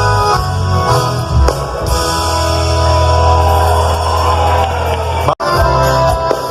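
Live band music without singing: an instrumental passage with guitar over a heavy bass. It drops out abruptly for an instant a little past five seconds in, then carries on.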